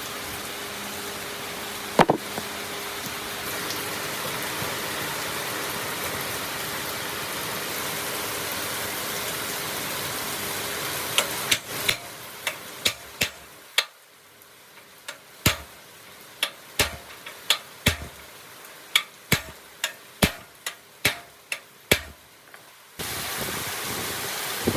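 Workshop noise: a steady hiss for about twelve seconds, then a run of sharp knocks or taps about one a second, then the hiss starts again near the end.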